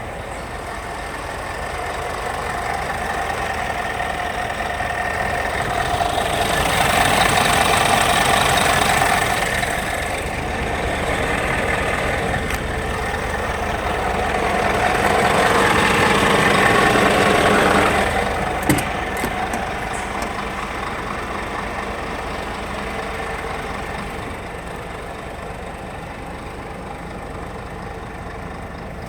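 Scania R440 truck's diesel engine running, swelling louder twice for a few seconds each, with a sharp click near the end of the second swell.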